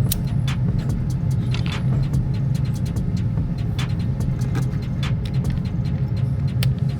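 Steady low rumble with scattered sharp gunshot cracks at irregular intervals, faint against the rumble. The clearest come at the very start and near the end.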